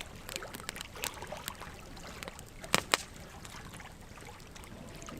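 Wood fire crackling: logs burning with scattered sharp pops, the two loudest close together about three seconds in, over a soft, steady hiss.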